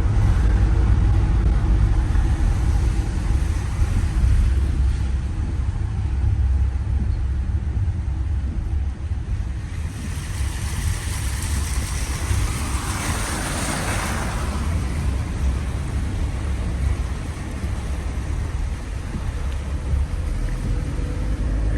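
A vehicle driving slowly through deep floodwater, with a steady low engine and road rumble. A rushing hiss swells and fades around the middle.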